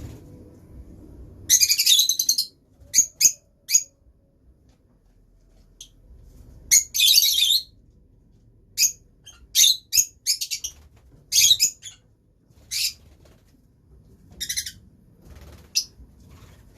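Lovebirds calling: a run of sharp, high-pitched chirps in short bursts, with two longer chattering bursts, the first about a second and a half in and the second about seven seconds in.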